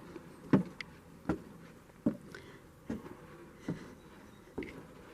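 Footsteps walking at a steady pace, a soft thump about every 0.8 seconds.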